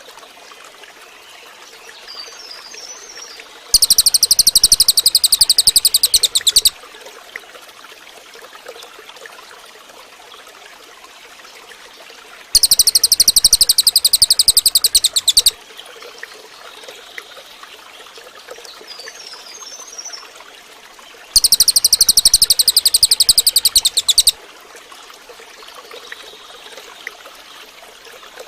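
Cililin bird singing three loud, high-pitched rapid trills, each about three seconds long and about nine seconds apart, over a faint steady sound of running water with soft chirps between them.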